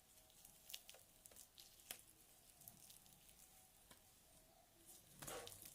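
Very faint scattered sticky clicks and squishes of homemade PVA-glue slime being handled and pulled, with a soft rustle about five seconds in.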